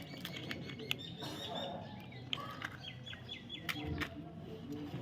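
A bird chirping in short, quickly repeated high notes, twice, against scattered sharp clicks.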